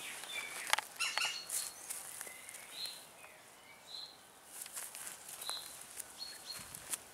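Birds chirping outdoors, short high notes every second or so, with scattered light scuffs and clicks, a cluster of them about a second in and again about five seconds in.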